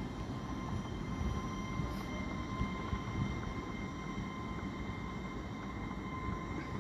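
LNER Azuma (Hitachi Class 800/801) train running slowly into the platform as it comes to a stop: a steady low rumble with a faint, even high whine over it.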